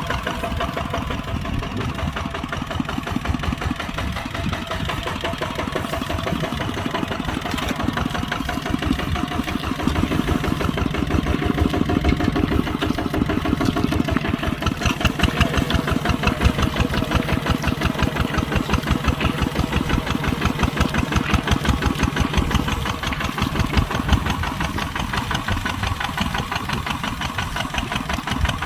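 Kubota tractor's diesel engine running steadily with a fast, even chugging pulse while plowing. It grows somewhat louder and heavier about a third of the way in, then eases back near the end.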